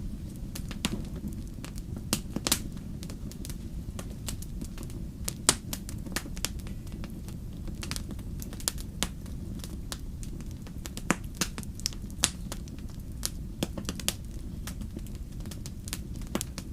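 Campfire of burning firewood crackling, with irregular sharp snaps and pops several times a second over a steady low rumble.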